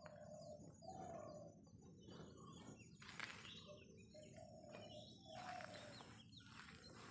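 Birds calling faintly: many short high chirps and a few held whistled notes, over a low steady rumble.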